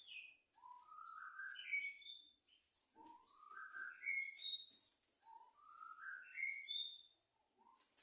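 Emprit kaji munia singing: a phrase of clear whistled notes stepping upward in pitch, given three times with short pauses between.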